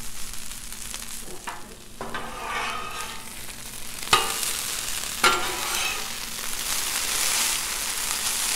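Shredded hash browns sizzling in butter and oil on a Blackstone flat-top steel griddle as metal spatulas scrape under them and turn them. Two sharp clicks of a spatula against the steel come about four and five seconds in, and the sizzle grows louder once the hash browns are turned.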